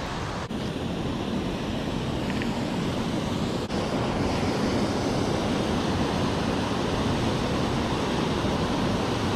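Mountain creek water rushing, a steady hiss that gets a little louder about a third of the way in and dips out for an instant twice.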